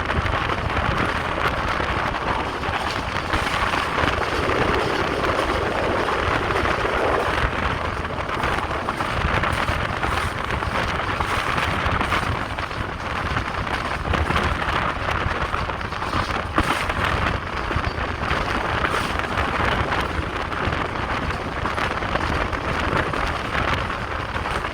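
Passenger train running at speed: a steady rumble of wheels on the track, with wind rushing over the microphone.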